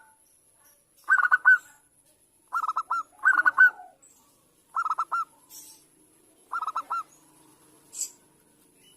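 Zebra dove (perkutut) cooing: five short phrases of quick, rolling notes, each under a second long, repeated every one to two seconds.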